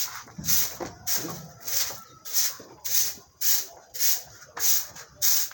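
Broom sweeping a floor in steady, even strokes, about two a second.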